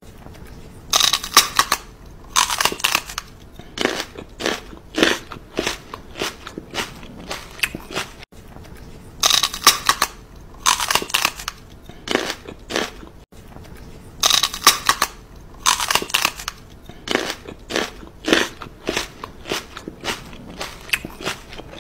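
Crunching, chewing sound played three times over. Each time there are two loud crunches, then a run of quieter crunches about twice a second.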